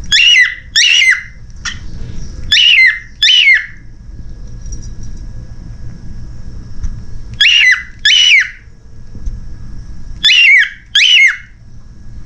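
Cockatiel giving loud, high calls in pairs, each call falling in pitch; four pairs come a few seconds apart.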